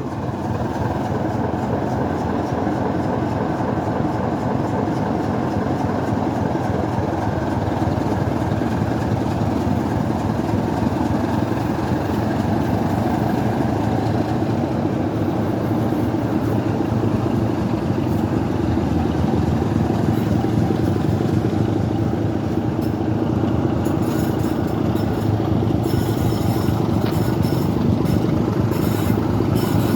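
Class 27 diesel locomotive's Sulzer six-cylinder engine working hard under power as the train pulls away: a loud, steady engine drone that grows a little louder as it goes.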